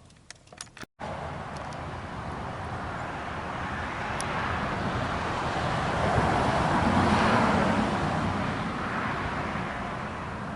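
Car driving on the road: a steady rush of road noise that builds to a peak about seven seconds in and then eases off.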